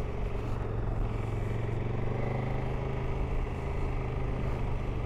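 KTM motorcycle's engine running at a steady note while riding along, with a haze of road and wind noise.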